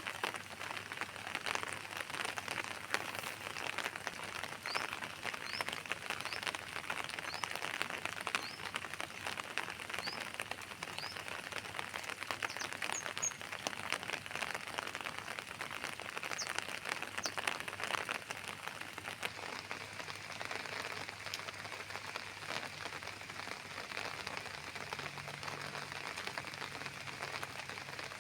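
Steady rain falling, a dense patter of drops on surfaces. A small bird chirps a string of short high notes through the first half, roughly every half second to second.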